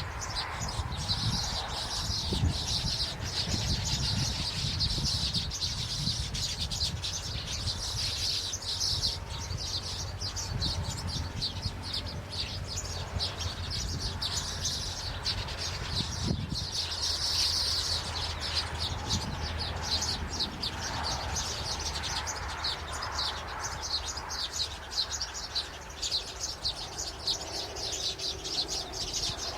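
Many small birds chirping continuously in rapid, high-pitched trills, over a steady low rumble.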